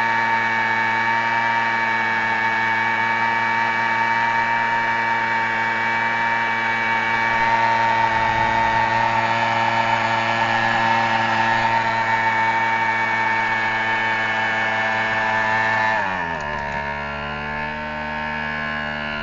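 Motorcycle engine held at steady high revs, spinning a tyre. About 16 seconds in the throttle is eased off and the revs fall away.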